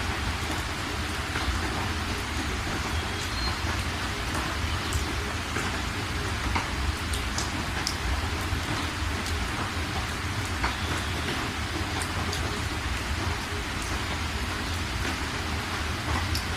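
Steady rain falling, with scattered individual drops landing distinctly.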